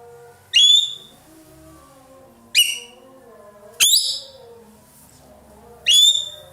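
Ekek keling bird giving four loud, short, piercing whistled calls, each starting with a quick upward sweep, spaced about one and a half to two seconds apart: the 'nembak' shooting calls of a bird in full song. A faint, lower warbling runs between the calls.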